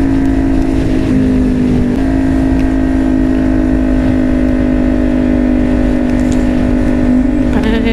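Kawasaki Ninja 400's parallel-twin engine running steadily under way, over a low rush of wind. The engine note drops about a second in and picks back up a second later.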